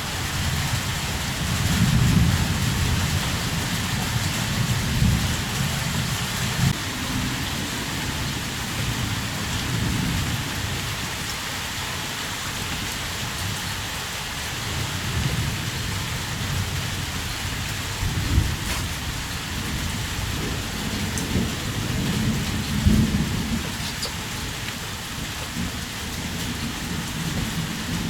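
Heavy rain falling in a steady hiss, with low rumbles swelling up irregularly every few seconds.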